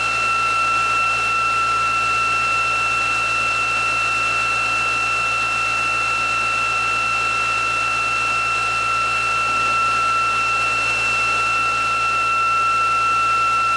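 Electric motors of a ReGenX motor-generator test rig running steadily at speed, giving a constant high-pitched whine over a hiss.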